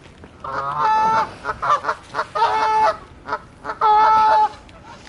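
A flock of geese honking: three long, loud honks with shorter calls in between.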